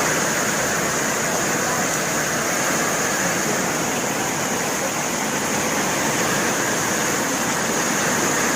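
Heavy rainstorm downpour, a steady dense hiss.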